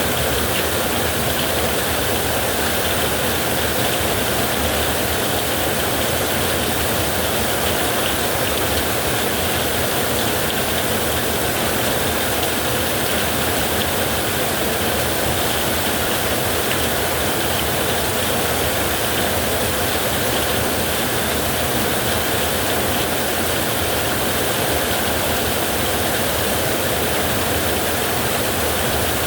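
Heavy rain with storm wind: a steady, unbroken rush of noise with no separate drops, gusts or thunder standing out.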